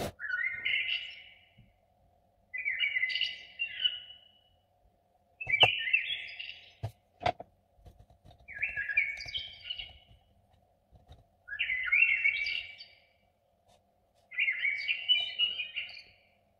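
A songbird singing short warbling phrases, each about a second long, six times at roughly three-second intervals. Two sharp clicks sound a little after the middle.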